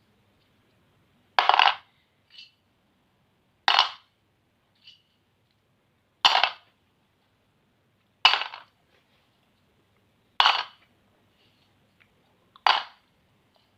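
Small plastic pencil sharpeners clattering together in six short bursts about two seconds apart, each burst sometimes followed by a faint single click.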